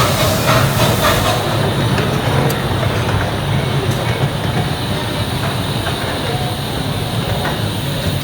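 A miniature railway train running along the track, heard from aboard: a steady rumble with wheel clatter.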